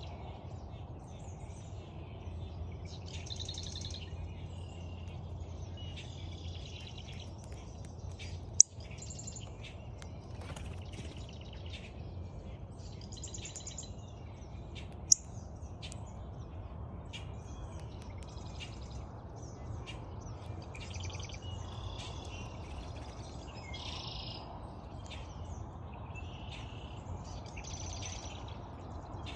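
Wild birds chirping and calling again and again, over a steady low hum. Two sharp, loud clicks cut in, about a third and halfway through.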